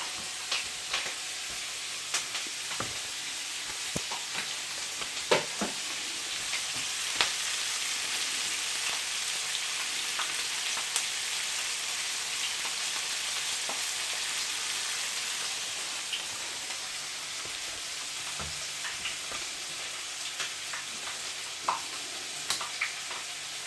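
Chicken frying in a pan with butter, onions and garlic: a steady sizzle, with occasional sharp clicks.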